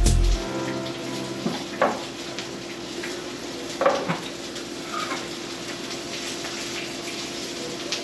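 Battered fish frying in hot oil on the stove, a steady sizzle, with a few clinks of dishes and utensils about two and four seconds in.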